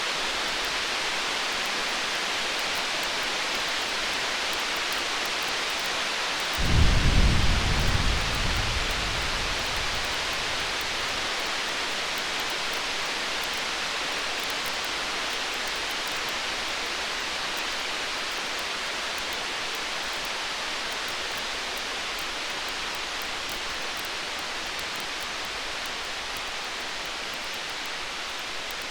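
A single roll of distant thunder, a low rumble that swells about seven seconds in and fades over the next few seconds, over a steady hiss of storm ambience.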